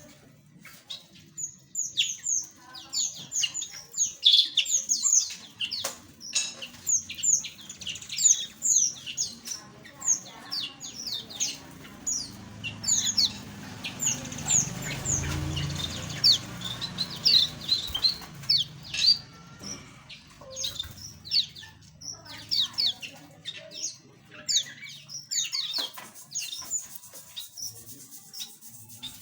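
A flock of small aviary birds chirping busily, many short high chirps falling in pitch and overlapping. A low rumble swells in the middle and fades again.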